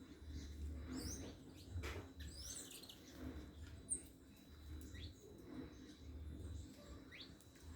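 Small birds giving short, high chirps and quick thin sweeping notes at irregular intervals, over a faint pulsing low rumble.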